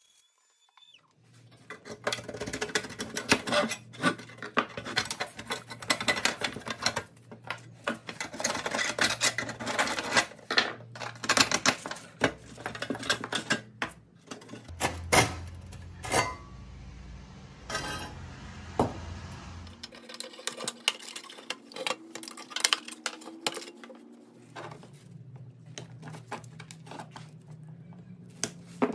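Rusty pressed-steel toy truck parts clinking, knocking and scraping against each other, the tools and the workbench as the truck is taken apart, with many sharp irregular knocks over a low steady hum.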